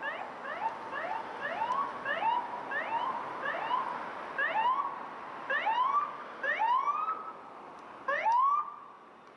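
Emergency vehicle siren on responding fire department apparatus: a run of rising whoops, quick and close together at first, then slower and longer, with the loudest just after eight seconds before the sound drops away.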